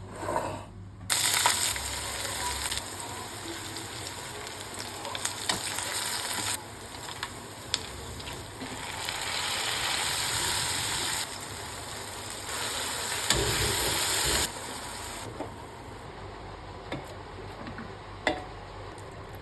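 Food sizzling as it fries in a pan, with occasional sharp clicks of stirring. The sizzle jumps louder and softer abruptly a few times.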